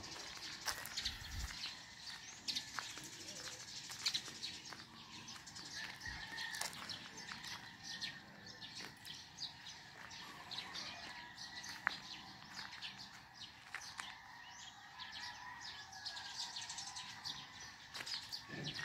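Many birds chirping and calling, with short, overlapping chirps all through.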